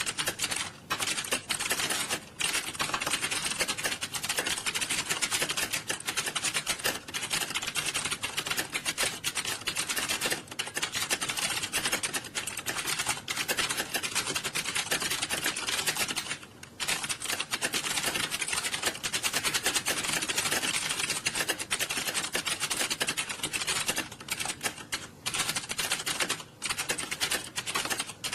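Many computer keyboards typed on fast at once: a dense, continuous clatter of key clicks from a room full of candidates sitting a timed typing test, dipping briefly now and then.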